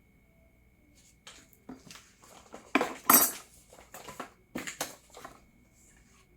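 Clacks and knocks of the coffee maker's parts (tumbler, scoop, filter basket) being handled and set down, a quick irregular string of them with the loudest clatter about three seconds in.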